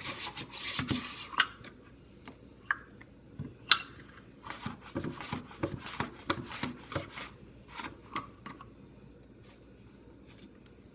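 Apples being cut into thin rings on a hand slicer: irregular knocks, clicks and short scraping strokes that thin out and stop about nine seconds in.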